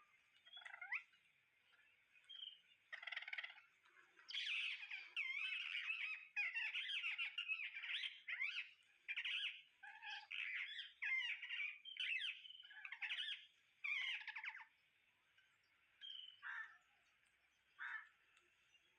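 Parrots squawking and chattering: a few short single calls, then a dense run of overlapping calls from about four seconds in until near the end, tapering back to occasional single calls.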